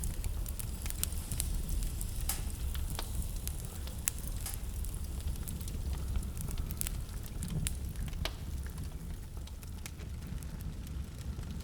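Wood fire in a fireplace crackling, with irregular sharp pops and snaps, thinning out near the end, over a steady low rumble of blizzard wind.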